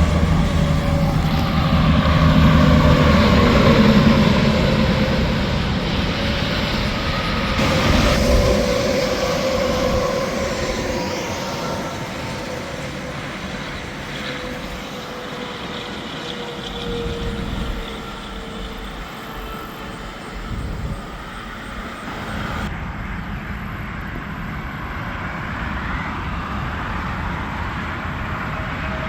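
Interstate highway traffic, with trucks and cars passing at speed. Their tyre and engine whine drops in pitch as each goes by, loudest in the first few seconds.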